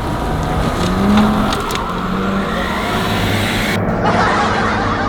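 BMW 530d's straight-six diesel engine revving hard as the car drifts on dirt, the pitch rising about a second in, with tyres sliding and scrabbling over loose ground.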